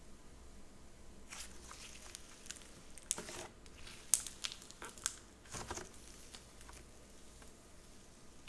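Slime being played with by hand, giving a run of crackly clicks and small pops from about one to six seconds in, then quieter.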